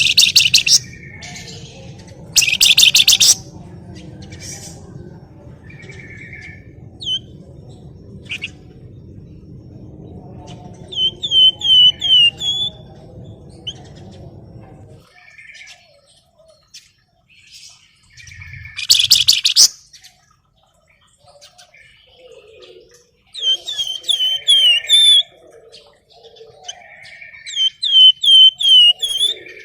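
Flamboyan songbird calling: short, loud, buzzy chattering rattles alternate with quick runs of four or five down-slurred whistled notes and softer chirps. A low hum underneath stops about halfway through.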